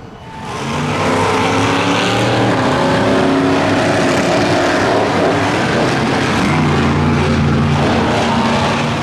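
Monster truck engines running loud at high revs, swelling up in the first second and then holding steady.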